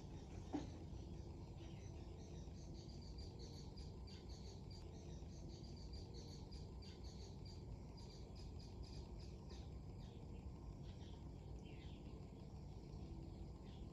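Steady low wind rumble on the microphone, with many short high chirps repeating over it and one longer falling call near the end.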